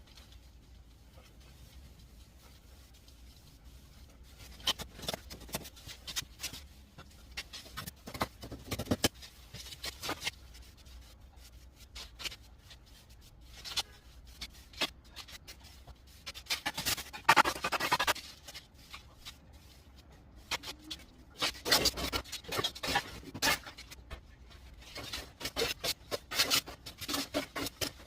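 Plastering trowel scraping and rubbing over wet cement mortar in irregular strokes. The strokes begin a few seconds in and come in denser runs later on.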